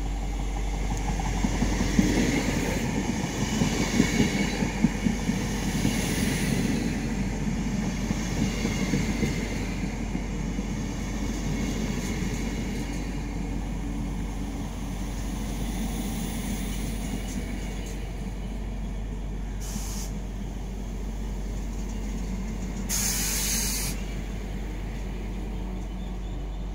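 Train of double-deck coaches hauled by an SNCF BB 15000 electric locomotive rolling slowly into the platform: wheels rumbling and clicking over rail joints, loudest early, then easing as the train comes to a stop. Two hisses of compressed air near the end, a short one and then a longer one of about a second.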